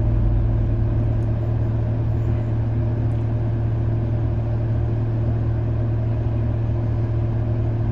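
Car engine idling steadily, heard from inside the cabin: an even low hum with no revving.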